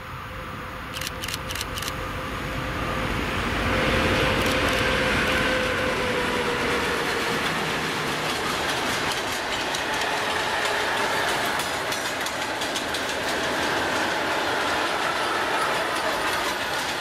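A 3E/1M electric freight locomotive approaches and passes, growing louder over the first few seconds, with a tone that falls slightly in pitch as it goes by. It is followed by a long rake of Talbot-type self-discharging hopper wagons rolling past: a steady rush of wheels with rapid clickety-clack over the rail joints.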